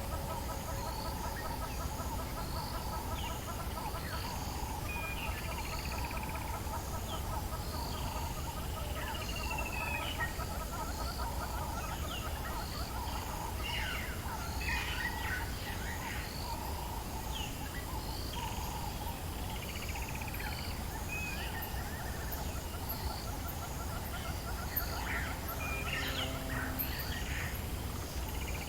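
Dawn chorus in the African bush: several birds calling and whistling at scattered moments over a continuous pulsing trill and a regular, repeated high chirping, with a steady low rumble beneath.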